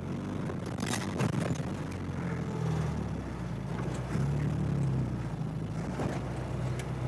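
UAZ off-roader's engine running under load, its revs rising and falling a little, while its wheels, fitted with planks, churn in deep snow and the vehicle makes little headway.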